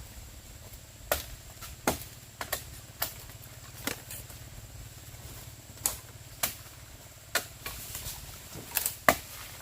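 A series of sharp, irregular knocks and snaps, roughly one every half second to a second, over a steady low hum.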